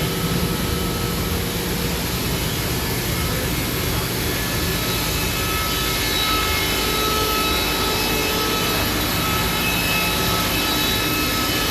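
Sawmill running steadily, its engine and blade making a continuous loud mechanical noise, with a faint high whine coming up from about five seconds in.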